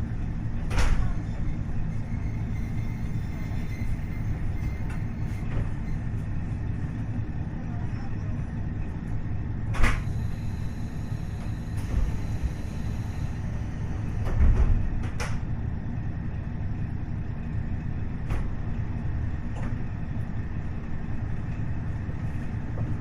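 Onboard running sound of a KiHa 40 diesel railcar with its DMF15HSA diesel engine: a steady low rumble of engine and wheels on the rails, with a few sharp knocks from the track now and then.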